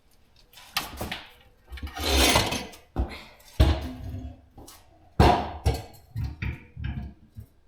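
Irregular knocks, clanks and scraping of hand tools and loose rusty exhaust pipe being handled, with a longer scraping stretch about two seconds in and a heavy knock just after five seconds.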